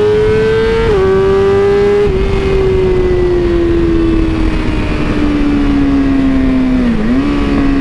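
BMW S1000RR's inline-four engine accelerating hard in race mode, its pitch climbing, then dropping sharply at an upshift about a second in and climbing again. From about two seconds in the pitch falls slowly as the bike comes off the throttle, with a brief dip and recovery near the end.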